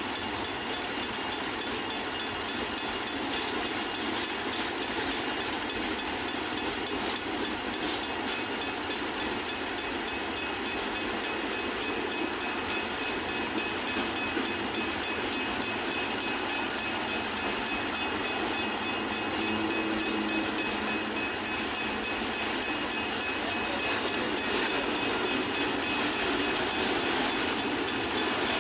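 Train running, with a steady, even ticking of about three strokes a second over a constant hiss.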